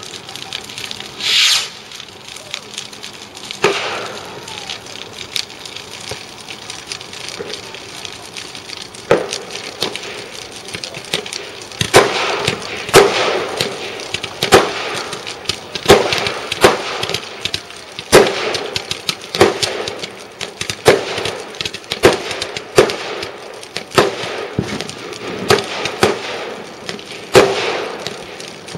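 Fireworks going off: a run of sharp bangs and cracks with short echoing tails. There is a brief hiss just after the start. The bangs are scattered at first, then come about one or two a second from about twelve seconds in.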